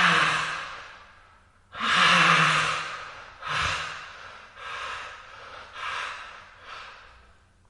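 A man's heavy, pained breathing: about six long, breathy exhalations with a low groan under the first two. They grow weaker and shorter until they fade out near the end.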